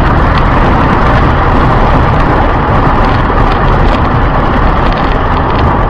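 Loud, steady road noise of a moving car picked up by a dashcam, with faint scattered clicks.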